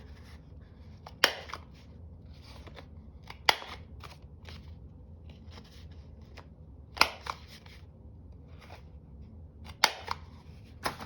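Corners of a piece of card stock being cut round: five sharp snaps of the cutter going through the card, with softer rustling and handling of paper between them.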